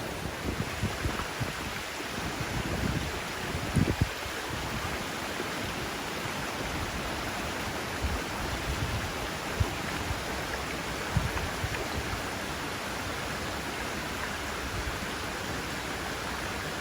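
Mountain stream flowing: a steady rushing hiss of water, with a few brief low thumps, the strongest about four seconds in.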